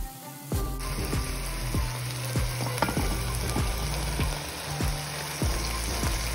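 Chicken tenders and chopped onion sizzling in hot oil in a pot while being stirred with a wooden spatula. The sizzle starts abruptly about a second in and then holds steady.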